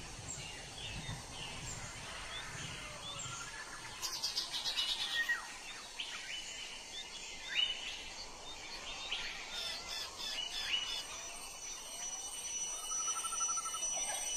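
Forest birds chirping and calling: many short, quick downward-sweeping chirps, with a rapid high trill about four seconds in and a lower buzzy trill near the end. A thin, steady high tone joins in the second half.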